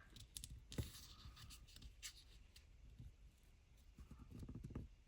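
Faint rustling and light taps of paper being handled as a paper page tab is folded over onto an index card.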